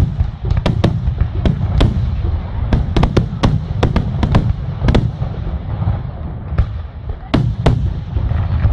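Fireworks display: a rapid, irregular volley of sharp bangs, several often coming close together, over a continuous low rumble.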